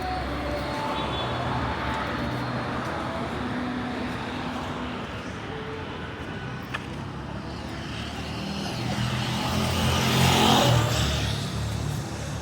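Street traffic noise, with a motor vehicle passing close by and growing louder to a peak about ten seconds in before fading.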